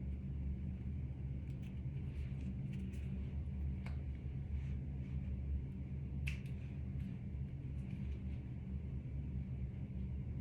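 Steady low hum with a few faint, light clicks and taps scattered through it.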